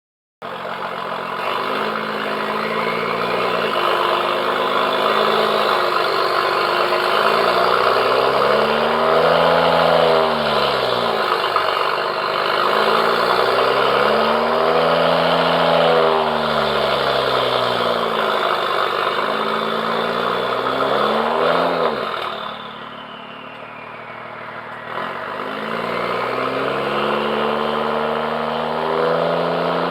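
BMW N55 turbocharged straight-six running through a Mach5 stainless valved exhaust, revved up and let fall back several times, with a quieter idle for a few seconds near the end before the revs climb again.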